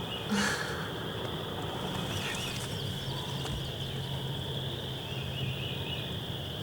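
Woodland ambience: a steady high-pitched chorus with scattered bird chirps over it, and a brief sharp noise about half a second in.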